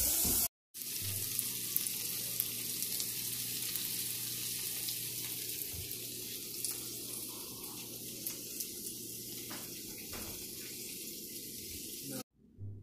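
Plant-based crumble with sliced bell peppers and onions sizzling in a skillet: a steady frying hiss with scattered pops. It cuts in just after the start and stops abruptly near the end.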